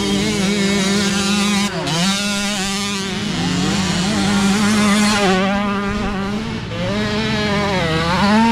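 Several youth mini dirt bike engines revving on a muddy hill climb, their pitch dipping and climbing again and again as the riders work the throttle, one engine holding a steady note beneath the others.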